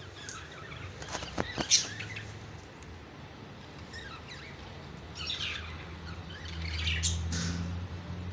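Pet parrots chirping and squawking in short clusters of calls, with a few sharp clicks about a second and a half in. A steady low hum comes up from about six seconds in.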